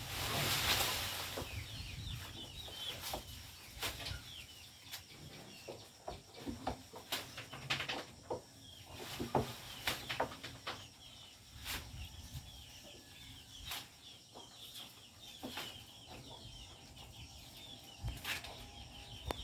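Chickens clucking, with a burst of wing flapping in the first second or two and scattered sharp taps throughout.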